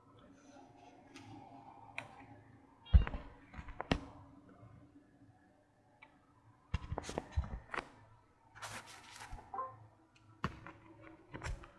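Irregular clicks, taps and knocks as robot vacuums are handled and their power buttons pressed to switch them on; the loudest is a thump about three seconds in, with a quicker cluster of clicks about seven seconds in.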